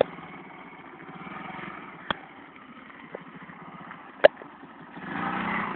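Single-cylinder four-stroke engine of a Honda C50 step-through fitted with a 90cc engine, running faintly, growing louder about a second before the end. Two sharp clicks about two seconds apart, the second louder.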